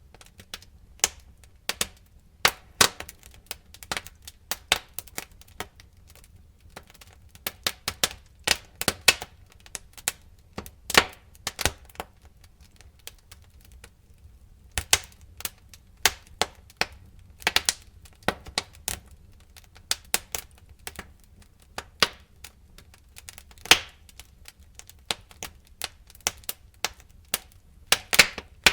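Wood fire in a fireplace crackling and popping, with irregular sharp cracks, several in quick clusters.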